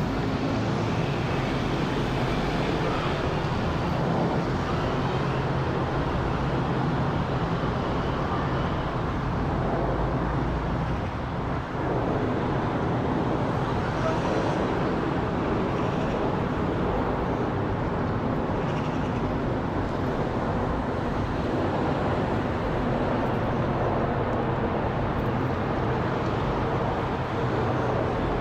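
Boeing 777-300ER airliner's GE90 turbofan engines, a steady jet roar as it flies overhead.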